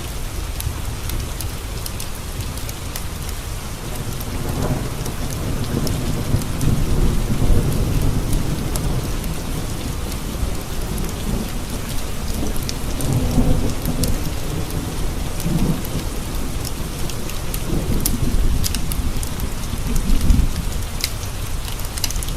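Steady rain tapping on windowpanes, with rolling thunder that swells in several low rumbles from about four seconds in. Scattered sharp crackles of a wood fire sound over the top.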